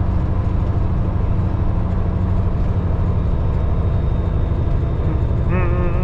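Semi truck's diesel engine running with a steady low drone while driving. About five and a half seconds in, a wavering high-pitched sound starts on top of it.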